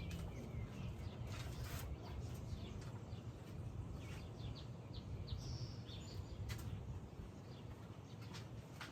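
Steady low background rumble with scattered small clicks and brief high chirps.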